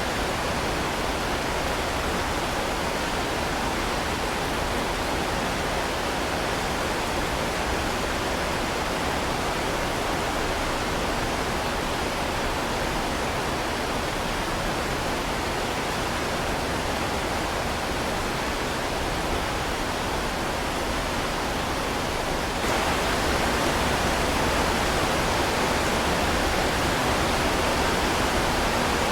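Heavy rain falling steadily, a dense even hiss. About three-quarters of the way through it abruptly turns a little louder and brighter.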